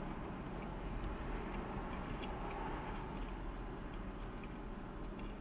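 Closed-mouth chewing of a soft chicken burger, faint small wet clicks over a steady low hum.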